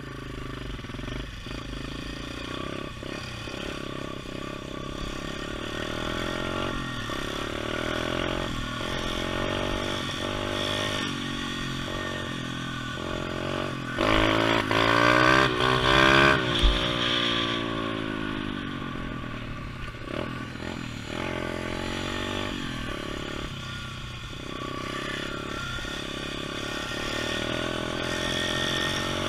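Pit bike engine running and being ridden, its pitch rising and falling repeatedly with the throttle, with the loudest hard revving about halfway through.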